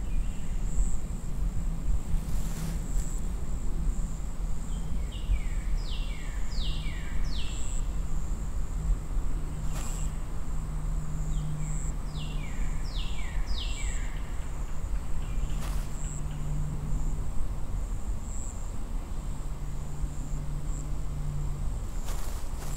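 Outdoor ambience: a steady low rumble under a continuous high insect-like whine, with a bird calling twice, each time in a short burst of three or four quick notes, about six and thirteen seconds in.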